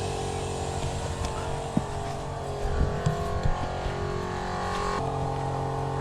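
12-volt electric air compressor running steadily, with a few knocks of handling in the middle; about five seconds in its tone changes abruptly.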